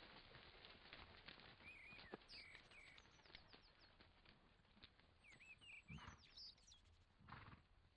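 Faint outdoor ambience with scattered bird chirps and a couple of soft low thumps.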